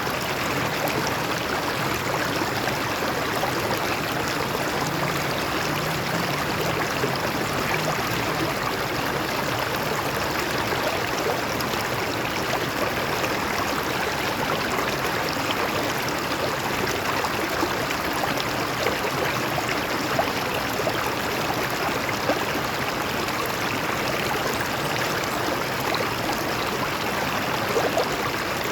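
Stream water flowing over rocks, a steady rushing and babbling with no pauses.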